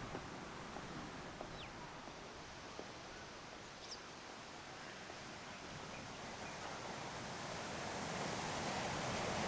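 Outdoor ambience of ocean surf washing, growing louder near the end, with a couple of faint, brief bird chirps.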